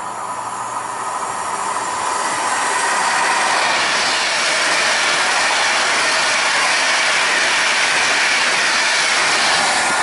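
Virgin class 390 Pendolino electric train passing the platform: wheel-on-rail and air noise that builds over the first three seconds, then holds loud and steady as the carriages go by.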